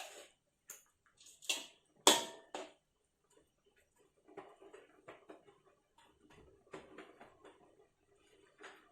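Kitchen handling sounds: a series of sharp clicks and knocks from utensils and dishes, the loudest about two seconds in, followed by lighter tapping and rustling.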